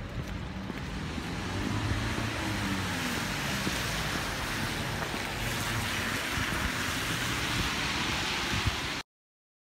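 Steady vehicle and road noise with a low hum and wind-like rush, cutting off abruptly near the end.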